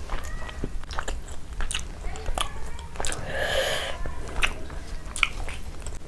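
Close-miked chewing of a mouthful of rice and chicken curry, with wet mouth clicks throughout and a longer wet squish about halfway through. Fingers mix rice and curry on the plate.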